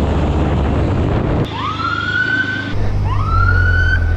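Police siren sounding repeated rising whoops, starting about a second and a half in and repeating roughly every second and a half, over a low engine hum; before it, a rough vehicle rumble.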